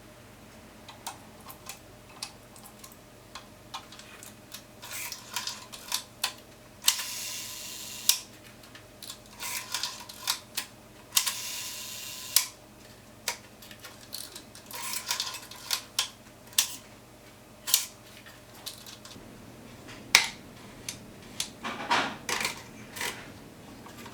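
Irregular clicks and taps of small metal parts being handled, with two longer scraping stretches of about a second each about a third and halfway through.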